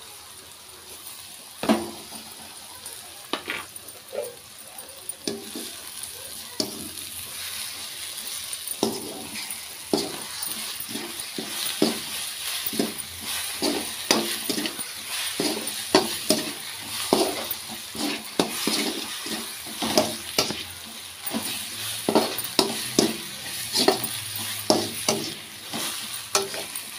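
Beaten egg sizzling in hot oil in a metal kadhai as a slotted spatula stirs and scrambles it for egg bhurji. A few knocks of the spatula on the pan early on, then from about nine seconds in rapid scraping and knocking, a few strokes a second, over a steady sizzle.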